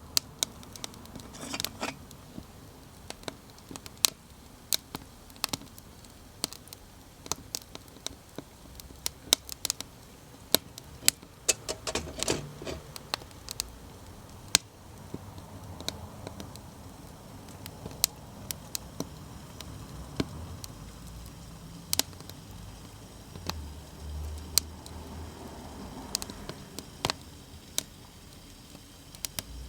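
Burning wood crackling in a small fire: irregular sharp snaps and pops, several a second, over a low background hum.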